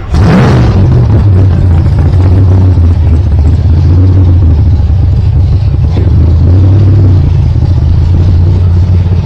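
Hot rod engine firing up: it catches with a sudden loud burst right at the start, then settles into a steady, loud, deep-toned running idle.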